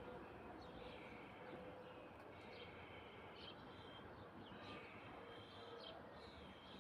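Faint bird calls, short high chirps with a quick falling sweep, repeating about once a second over a steady outdoor background hiss.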